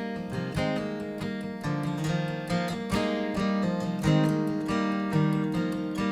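Acoustic guitar strumming chords, the solo instrumental intro of a folk song played live.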